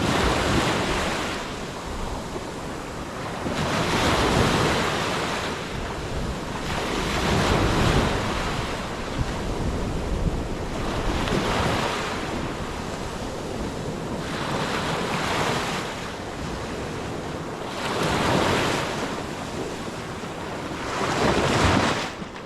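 Ocean waves breaking and washing in, each surge swelling and fading about every three and a half seconds, with wind buffeting the microphone.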